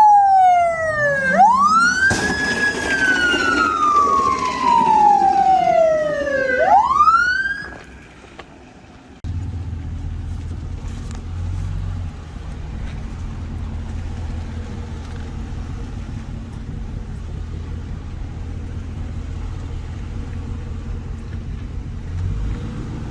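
Police car siren wailing: slow falling sweeps, each followed by a quick rise back up, which stop about eight seconds in. It is followed by a steady low rumble.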